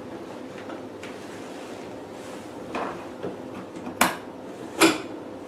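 Plastic ultrasonic handle piece of a facial machine being handled and fitted in place: a few clicks and knocks, the two loudest near the end, over a faint steady hum.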